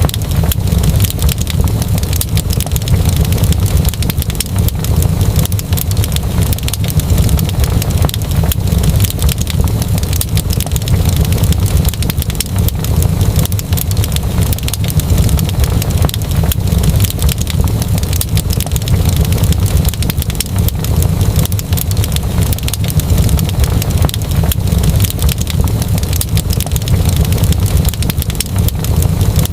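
Wood fire in a fireplace crackling, with many small pops and snaps over a steady low rumble.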